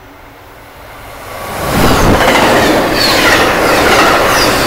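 Electric push-pull passenger train, cab car leading, passing at high speed: a rush of wheels on rail and wind that swells about a second in and stays loud, with faint wheel squeals over it.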